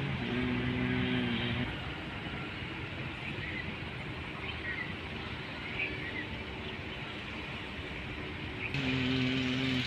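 Eicher 11.10 cargo truck's diesel engine running steadily, with a steady low hum that comes in twice, near the start and again near the end.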